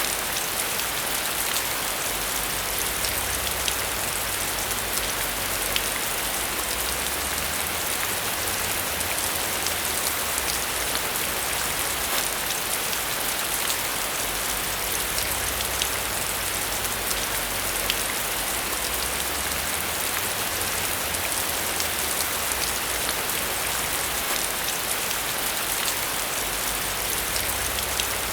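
Steady rain falling, a dense even hiss with many fine drop ticks and a low rumble that swells and fades.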